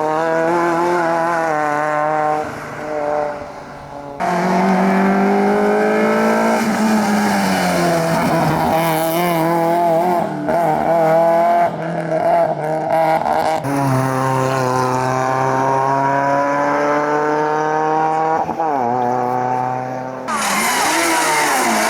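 Competition car engines at full throttle, pitch rising as they rev and dropping at each gear change. The sound switches abruptly several times from one car to the next.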